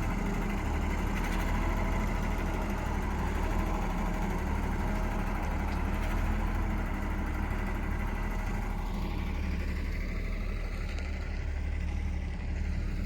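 Diesel engine of a revived John Deere heavy machine running steadily with a low, even hum.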